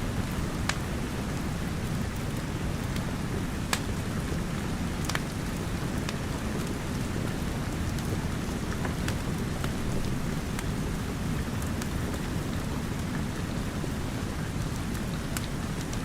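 Steady rain falling with a deep, even rumble underneath, and a wood fire crackling with sharp isolated pops every second or two.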